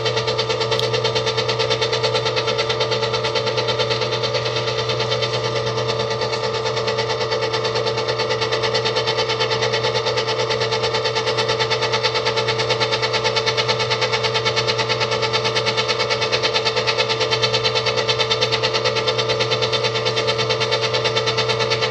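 Stand mixer motor running steadily on speed 1, a constant hum with several steady tones. It makes a really weird noise.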